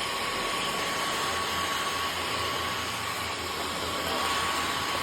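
A small electric appliance running steadily, a motor and rushing air with a thin, steady whine above it.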